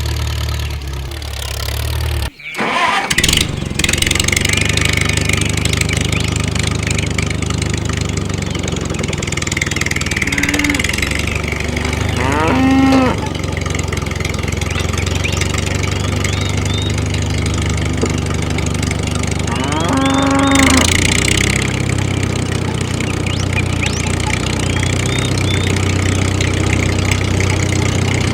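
An engine runs steadily at idle, cutting out briefly about two seconds in. Two short pitched sounds stand out over it, one near the middle and one later.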